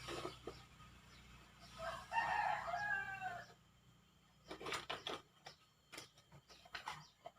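A rooster crows once, about two seconds in, a call lasting about a second and a half. After it come light clicks and rustles of things being handled.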